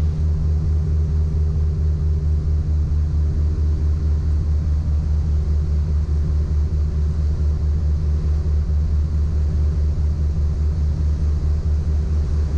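Piper Apache's twin piston engines and propellers droning steadily in the cabin, a low, even drone with a fine regular pulse.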